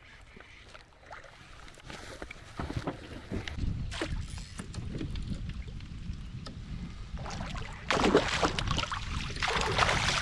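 A kayak being paddled on the water: irregular paddle splashes and knocks, with two louder splashing strokes near the end.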